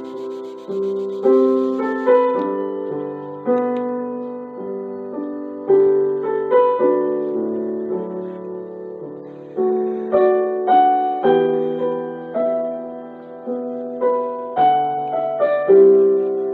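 Background piano music, a slow, gentle melody of single notes and chords that ring and fade.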